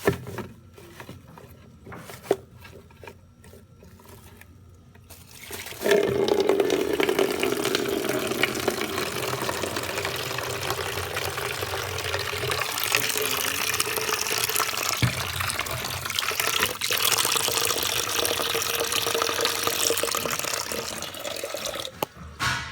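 Water running from a tap and filling a container. It starts with a gush about six seconds in, runs steadily for about sixteen seconds and stops near the end.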